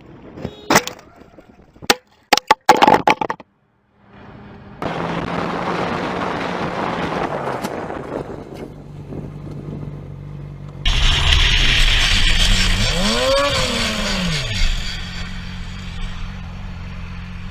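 Road-traffic audio in quick cuts: a few sharp cracks and knocks in the first three seconds, then steady vehicle engine and road noise. A loud hiss of wind and road noise comes in about eleven seconds in, and an engine note rises and falls in pitch a little later.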